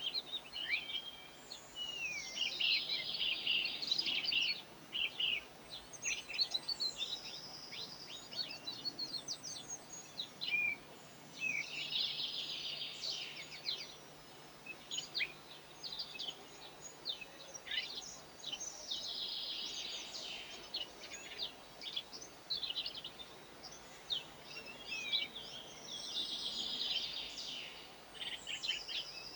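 Garden songbirds singing and chirping: a dense, twittering song phrase comes four times, with scattered short chirps between.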